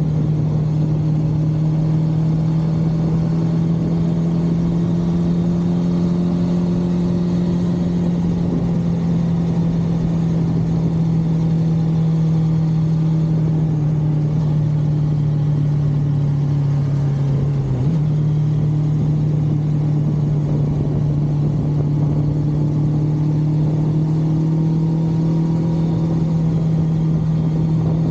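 1982 Suzuki GS550L's air-cooled inline-four engine running at steady road speed on the move. Its pitch sags slowly, then steps back up a little past halfway through.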